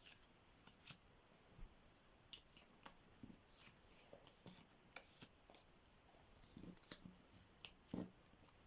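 Near silence with faint, scattered clicks and rustles of playing cards being handled.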